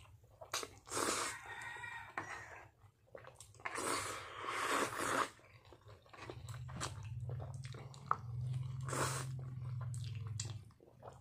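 A person chewing Samyang tomato pasta noodles close to the microphone: many short clicks and a few longer noisy stretches. A low steady hum runs through the second half.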